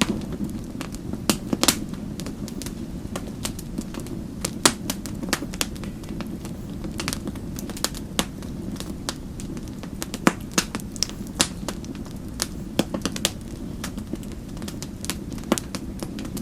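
Wood fire crackling, with irregular sharp snaps and pops over a steady low rumble of the flames.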